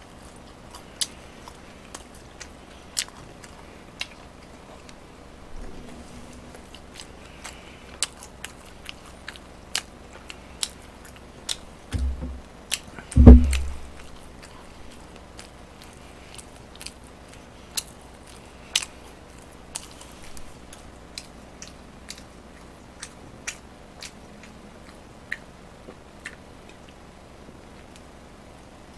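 A person chewing fried chicken close to the microphone, with scattered sharp, wet mouth clicks and smacks. About 13 seconds in there is a loud low thump, with a lighter one just before it.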